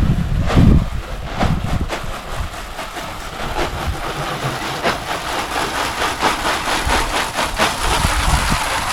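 A long-handled brush scrubbing a caravan's dirty panels in steady back-and-forth strokes, about two to three strokes a second.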